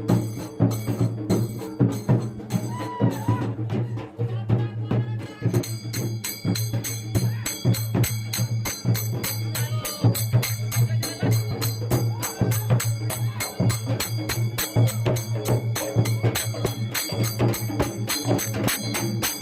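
Percussion music: drums and jingling metal struck in a fast, dense, steady rhythm, over a steady low hum.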